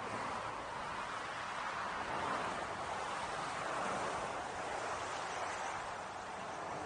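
A waterfall's steady rush of water, an even hiss with no breaks.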